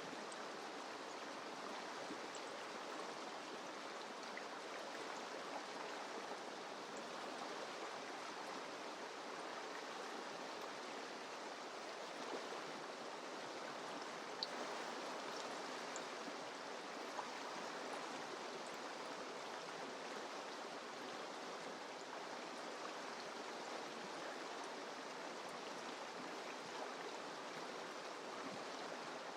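Mountain river rushing and splashing over rocks, a steady even rush of water with small splashes here and there.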